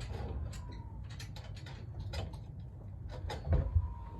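Scattered clicks and light taps of marimba frame parts being handled and fitted together, with a few heavier thumps about three and a half seconds in.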